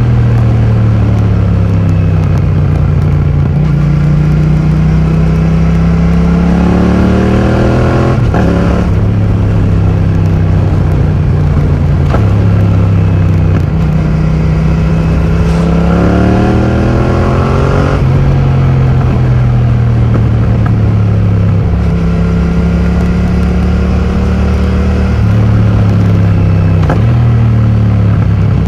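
2020 Yamaha MT-07's parallel-twin engine through a full titanium Akrapovič exhaust with the dB killer modded, under way: the note climbs under throttle and drops sharply at each gearshift or throttle-off, several times, with steadier running between.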